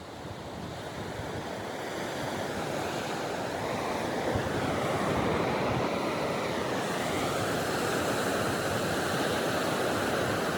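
Ocean surf washing on the shore: a steady rushing noise that grows louder over the first three seconds, then holds level.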